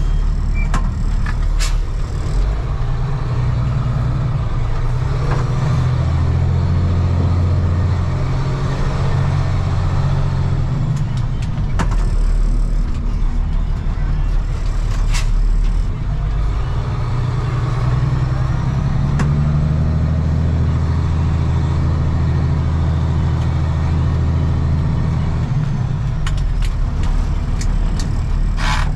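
Diesel engine of a 1995 Ford L8000 truck running, its note stepping up and down several times, with a few sharp clicks over it.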